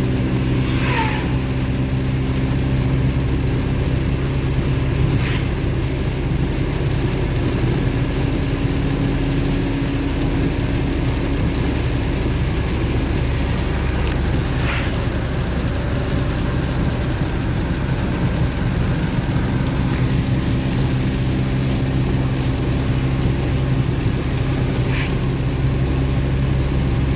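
Chevy S10 pickup's engine idling steadily under an even hiss of rain, with a few sharp ticks now and then.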